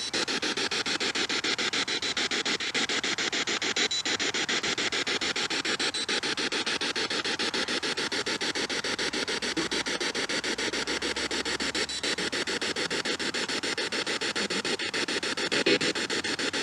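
Spirit box radio sweeping through stations: steady radio static chopped into rapid, even pulses as the scan jumps from channel to channel.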